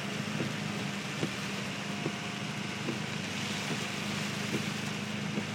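Heavy rain on a moving car, heard from inside the cabin: a steady hiss of rain and wet road under a low, even engine hum, with a few light taps scattered through.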